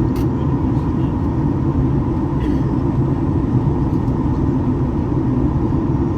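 Steady in-flight cabin noise of a Boeing 737-800, heard from a window seat above the right-hand CFM56 engine: an even, deep roar of engine and airflow with a faint steady tone over it.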